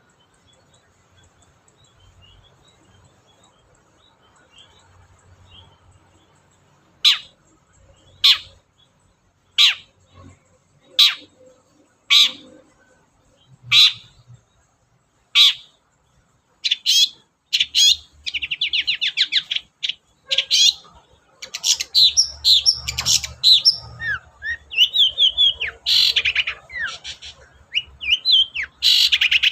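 Long-tailed shrike (cendet) singing: a string of sharp, downward-sweeping calls, about one every second and a half, then, past the middle, a fast, varied chattering song with trills.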